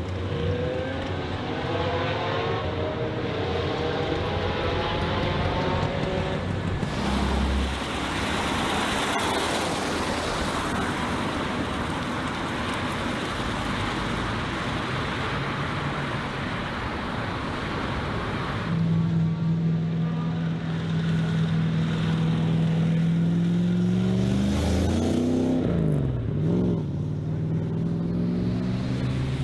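Mercedes-AMG car engines across a run of short clips. First an engine accelerates with a rising pitch through the gears, then comes a long stretch of loud rushing noise. After that an engine holds a steady note and is revved up and down in quick blips near the end.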